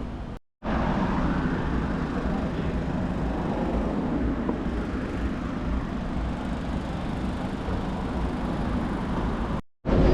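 Steady city street traffic noise, with vehicles passing.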